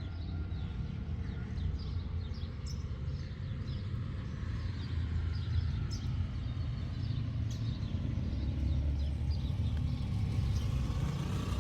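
Outdoor ambience: a steady low rumble with many small birds chirping throughout.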